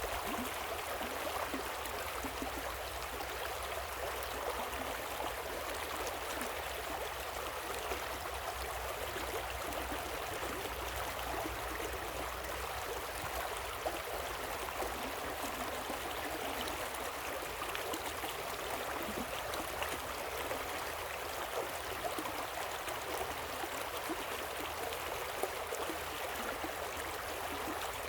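River water and a waterfall running: a steady, even rush of water with small irregular splashes.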